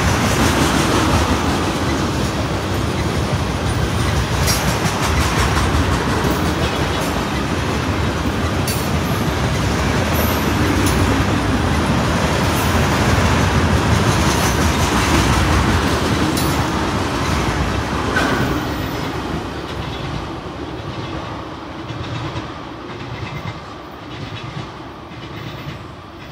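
Freight train tank cars rolling past, a steady rumble of steel wheels on rail with sharp clicks and clacks over the track joints. From about two-thirds of the way in it fades to a receding rhythmic clatter as the last cars pass and move away.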